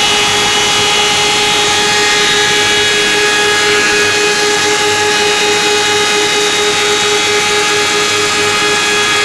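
Sienko wood moulder running steadily: a constant whine of its spinning cutterheads over loud, even machine noise.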